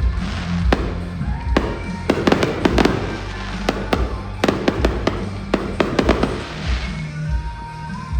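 Fireworks bursting in rapid clusters of sharp bangs and crackles, with show music playing underneath.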